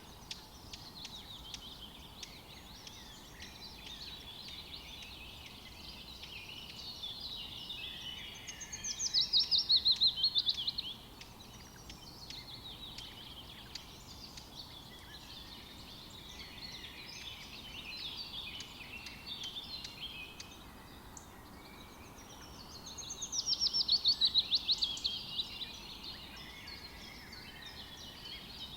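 Several birds chirping and singing continuously. Twice, one bird gives a loud, fast run of notes that slides down in pitch and lasts two to three seconds.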